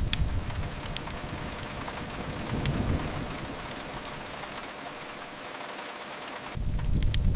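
Steady rain patter mixed with the sharp snaps and pops of a crackling wood fire. A low rumble fades early on, swells again about three seconds in, and comes back strongly near the end.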